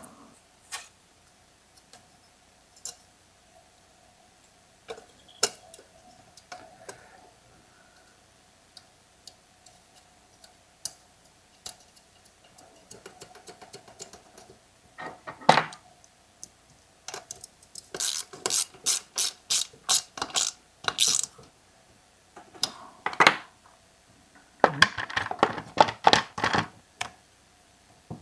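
Hand tools working on a chainsaw being reassembled: scattered clicks and knocks of metal parts and tools, with a quick run of ratchet strokes, about three a second, in the middle and a busier burst of clatter near the end.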